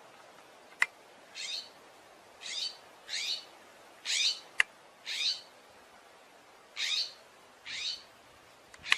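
An animal's short, harsh, raspy calls, repeated about eight times at uneven intervals, with two sharp clicks, one about a second in and one about halfway through.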